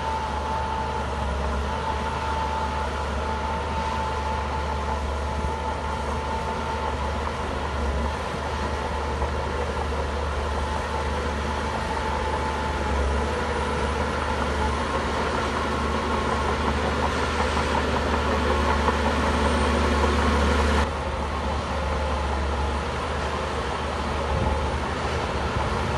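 Heavy diesel engine of a Shantui bulldozer running steadily with a constant low drone. The sound changes abruptly about 21 seconds in.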